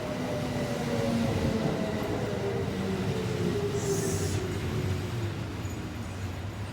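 Kintetsu electric train running with a low rumble, its motor whine falling slowly in pitch as the train slows. A short hiss comes about four seconds in.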